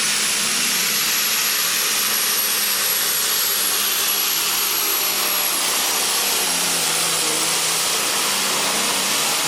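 Turbocharged Allis-Chalmers D21 pulling tractor engine running flat out under load while pulling the sled, loud and steady, with a high turbo whine held throughout.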